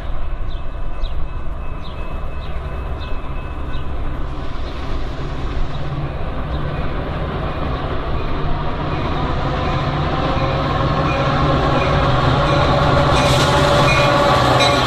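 Metra commuter train led by an EMD F40PH diesel locomotive approaching, its engine a steady low drone. Wheel squeal and rail noise build up over the last few seconds as it draws close. A faint regular ticking, about twice a second, stops about four seconds in.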